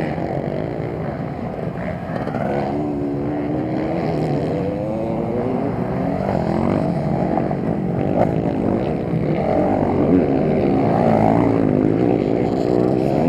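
Motocross motorcycle engines racing, several at once, their pitch rising and falling as the riders rev on and off the throttle.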